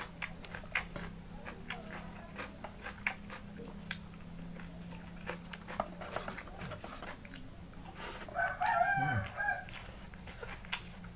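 Close-miked eating sounds of a man eating rice by hand: many small mouth clicks and smacks of chewing over a steady low hum that fades about six seconds in. About eight seconds in, a short wavering call lasting about a second is the loudest sound.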